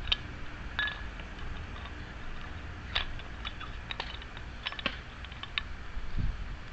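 Door lock hardware being handled and fitted: scattered light metallic clicks and taps, with a few sharper ones about three and five seconds in.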